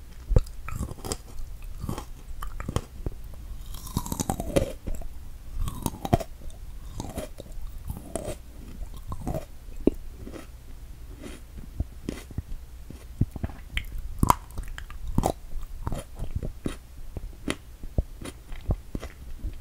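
Close-miked chewing and mouth sounds of someone eating strawberries: a steady run of short clicks with no words.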